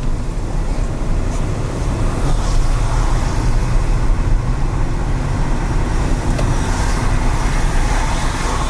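A car driving on rain-wet city streets: a steady low rumble of engine and road noise with tyre hiss, which swells a little about three seconds in and again near the end.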